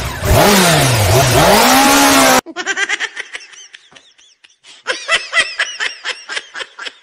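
A loud engine-like sound revving, its pitch swinging down and up, cuts off suddenly about two and a half seconds in. Quick, repeated laughter follows.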